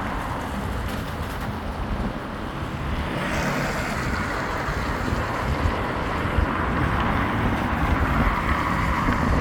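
Road traffic on a wet road: steady tyre hiss and engine rumble, the hiss rising about three seconds in as a vehicle comes past, with wind buffeting the microphone.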